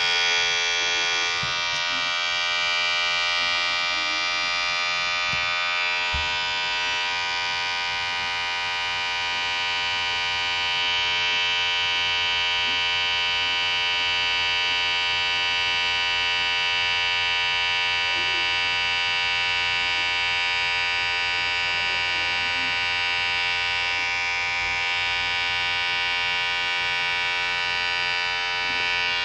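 Electric hair clipper running continuously with a steady, even buzz.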